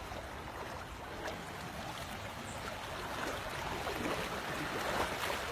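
Floodwater running in a steady rush, slowly growing louder.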